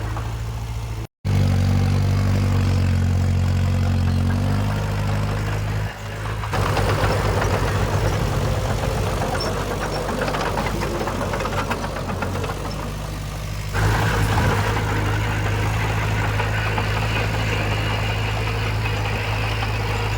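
Diesel engines of earthmoving machines running at a steady pitch. The sound cuts out for a moment about a second in and changes abruptly twice more, with a busier, clattering stretch in the middle.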